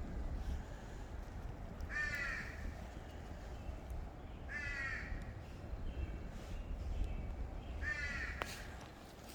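A corvid calling in the forest: three short, harsh caws spaced about three seconds apart.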